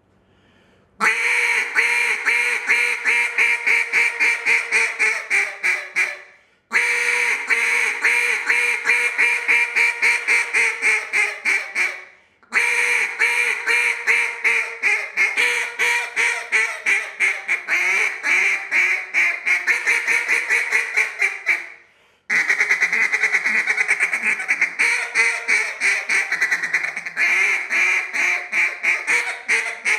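Elite Duck Calls acrylic Cache duck call blown in four long runs of rapid, raspy duck quacks and chatter, with a short break between runs.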